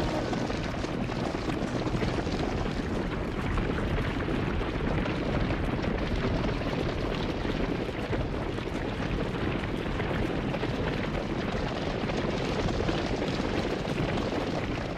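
Steady rushing and rumbling noise of a moving train, heard from on or right beside the cars.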